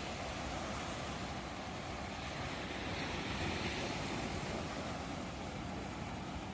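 Ocean surf: waves washing in as a steady rush of noise, swelling gently about two to three seconds in.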